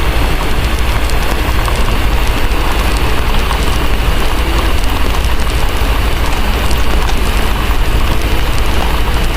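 Heavy rain and a crackling wood fire, with a steady low rumble underneath.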